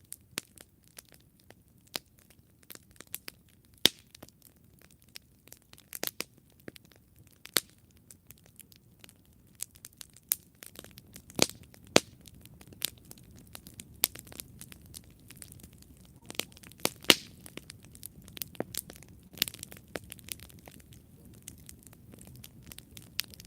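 Wood campfire burning, crackling with irregular sharp pops and snaps over a low steady rush of flame. The rush grows a little about ten seconds in.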